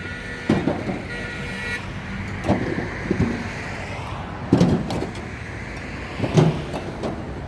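Bricks clacking against one another as they are unloaded by hand, a sharp knock every second or two over steady traffic noise.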